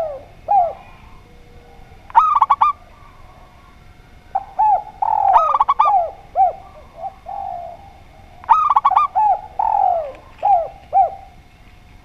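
Doves cooing in repeated phrases every two to three seconds. Each phrase is a quick run of short notes followed by a few falling coos.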